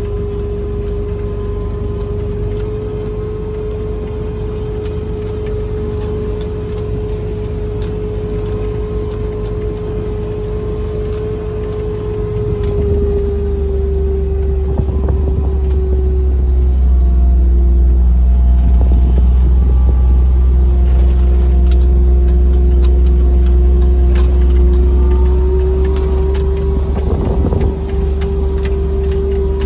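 A farm vehicle driving over rough ground, its engine running with a steady whine that dips lower partway through and climbs back near the end. A low rumble grows louder about halfway in, with scattered knocks over it.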